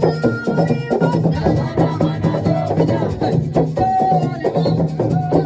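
Drum ensemble playing a fast, dense rhythm, with rattles or shakers and voices mixed in.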